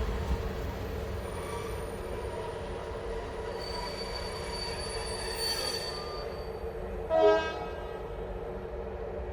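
A train rolling slowly to a stop at a station platform, its wheels and brakes squealing with steady high tones. About seven seconds in comes a brief horn toot, the loudest sound.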